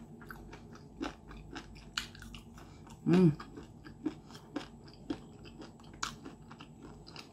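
Close-up crunching chews of battered, fried chicken breast cartilage, many short crisp cracks. A brief hummed 'mm' comes about three seconds in.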